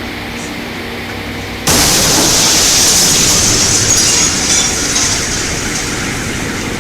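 Sonic boom of the Chelyabinsk meteor reaching the ground: a sudden loud blast about two seconds in, followed by a few seconds of crackling, rattling noise that slowly dies down.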